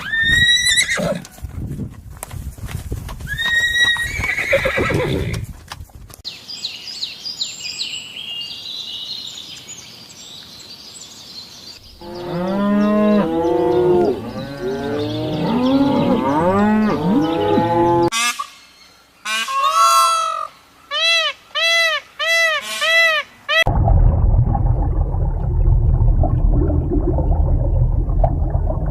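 A string of different farm and other animal calls, one recording after another, changing every few seconds: pitched calls, high chirping, a dense chorus of overlapping calls, a regular series of repeated calls, and finally a low rough rumbling noise.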